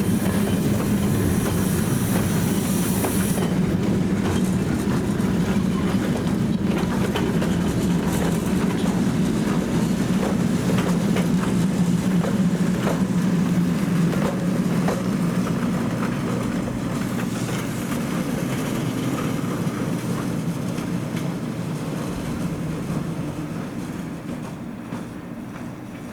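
Train rolling past with wheels clicking over rail joints over a steady rumble, growing fainter over the last ten seconds. A high hiss in the first few seconds cuts off.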